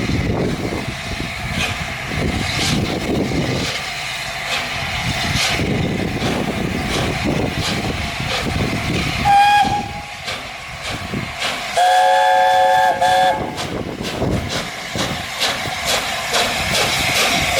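Steam locomotive chime whistle, the LNER A4's multi-note whistle: a short blast about nine seconds in, then a longer chord of several notes lasting about a second and a half, over continuous noise.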